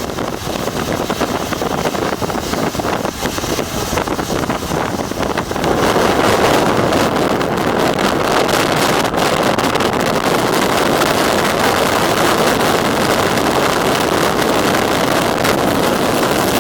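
Loud, rushing vehicle noise with wind buffeting the microphone and no clear engine note. It grows louder about six seconds in.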